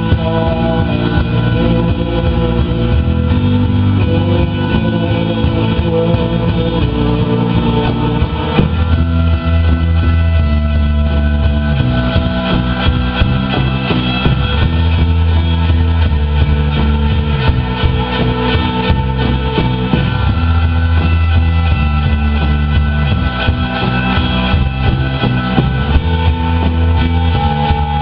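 Live rock band playing an instrumental passage: electric guitar over bass, drums and synthesizer, loud and continuous.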